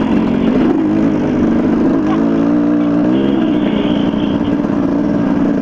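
Dirt bike engine running on a trail ride, its pitch rising and falling as the throttle is worked.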